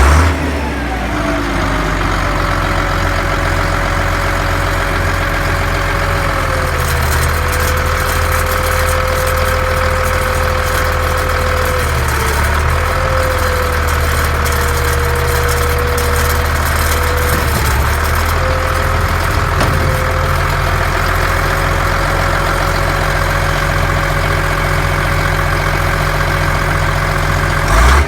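Bobcat 1155 skid-steer loader's rebuilt engine idling steadily, with a steady whine over it that dips slightly in pitch a few times; the engine is running well after about two hours' work. A short loud burst at the very start and again at the very end.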